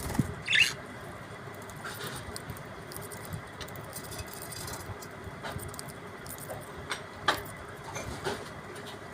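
Pet budgerigars giving a few short, sharp chirps over a steady background hiss. The loudest chirp comes about half a second in and two more come near the end, with faint light clicks in between.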